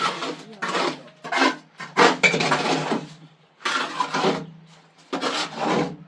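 Hard objects being handled, scraped and knocked together in irregular bursts of clatter.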